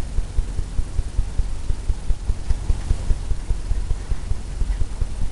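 Paintbrush being cleaned: a rapid, uneven run of dull low thumps as the brush is knocked and wiped off.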